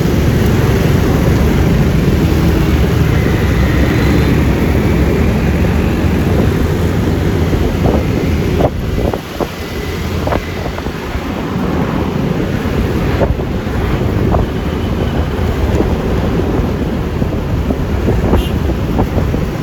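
Wind buffeting the microphone and road noise while riding a Yamaha Lexi LX 155 scooter, its single-cylinder engine running underneath. The noise drops briefly about nine seconds in, then comes back.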